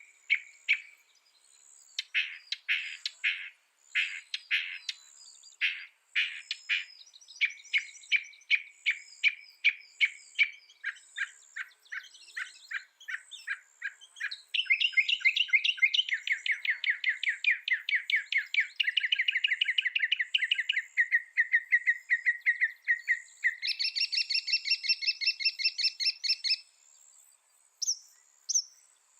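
Mockingbird singing a long run of phrases, each repeated several times: separate sharp chirps for about the first half, then a fast, loud trill that shifts pitch twice and stops a few seconds before the end.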